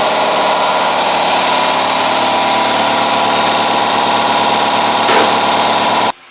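Air compressor running steadily as it fills its tank, a constant motor hum with a hiss. It stops abruptly near the end.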